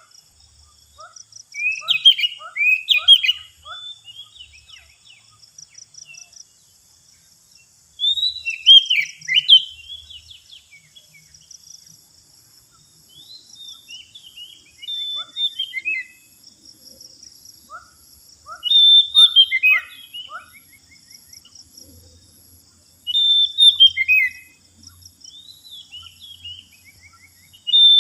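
Oriental magpie-robin (kacer) song used as a lure call: loud, varied whistled phrases in bursts about every five seconds, over a steady high insect buzz.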